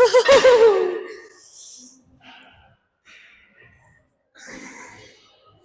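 A woman's drawn-out, wavering groan that falls in pitch and fades about a second in, followed by faint breathing and small sighs.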